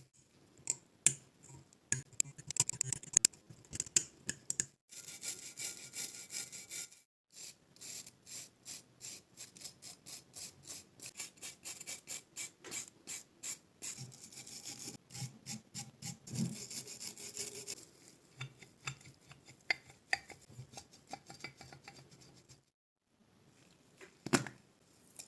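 Scraping strokes on the rusty steel pipe wrench, even and about two a second, with sharp metallic clicks in the first few seconds and a single knock near the end.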